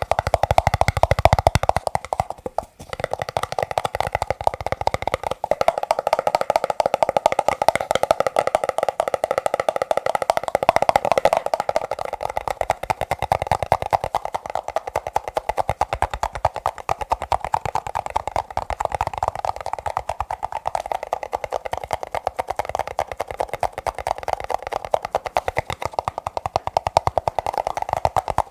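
Fast, dense tapping on plastic cups, the taps blurring into a continuous patter with a hollow ringing tone from the cups. A brief pause comes about three seconds in.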